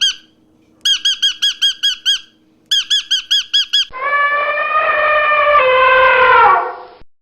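Animal calls: two bursts of quick, high squeaky calls repeated about eight times a second, then a different, long pitched call that holds for about three seconds, falls in pitch near its end and cuts off abruptly.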